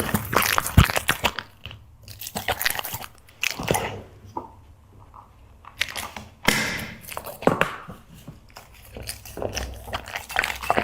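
Black Labrador chewing and crunching dried seafood treats with open-mouthed smacking, in several bursts of rapid crunches with a short pause around the middle.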